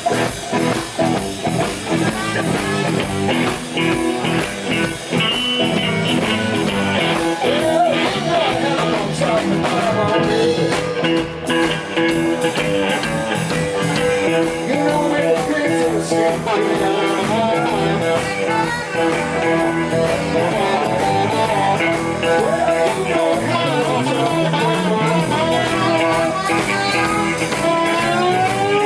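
Live blues-rock band playing an instrumental break, an electric guitar leading with bending notes over bass and drums.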